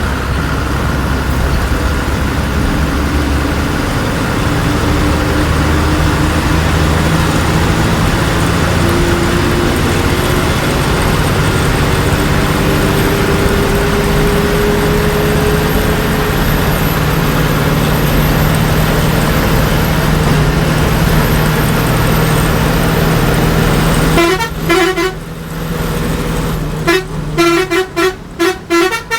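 Ashok Leyland bus engine running steadily under load, a loud continuous drone. Near the end a horn is sounded in a rapid series of short blasts, as for overtaking.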